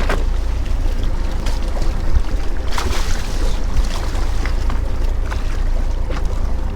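Fishing boat at sea: a steady low rumble with wind on the microphone, and scattered brief splashes and knocks of water and gear against the hull.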